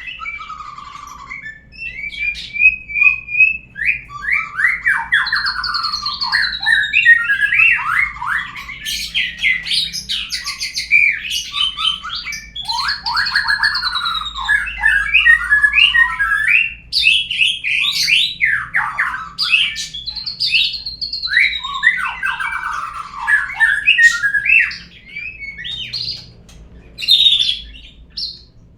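Murai songbird singing a loud, varied song of fast trills, clear whistles and sweeping notes, a lure song meant to set another murai singing. It eases off briefly near the end, then picks up again.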